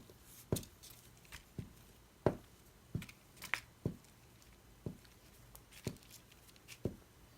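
Light, irregular taps and paper handling at a craft table, about a dozen short clicks spread unevenly, as a torn piece of paper is glued down with a glue stick.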